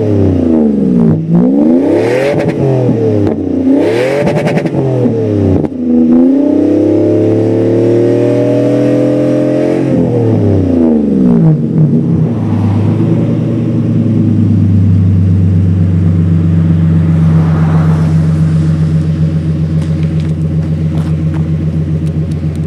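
Toyota Century's one-off exhaust, fitted after the catalytic converter with only a middle silencer, as the engine is revved: three quick throttle blips, then a longer climb in revs held for a few seconds. About twelve seconds in it drops back and settles into a steady idle.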